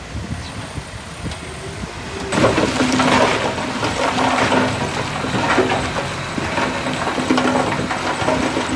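Heavy earthmoving machinery running. About two seconds in, the sound switches abruptly to louder, dense crackling and clatter over a steady low hum.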